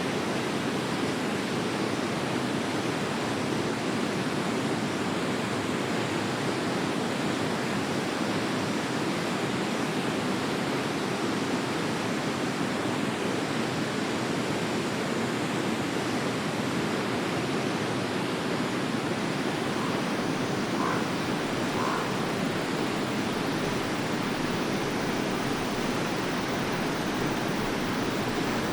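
Forest river flowing steadily, an even rushing of water. Two brief faint calls come about two-thirds of the way in.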